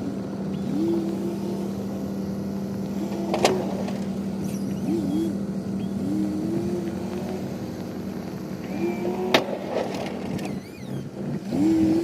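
Truck engine running steadily while a snow plow's electric-hydraulic pump whines about six times, each whine rising in pitch then holding briefly as the blade is moved. Two sharp knocks, one in the first half and one later on.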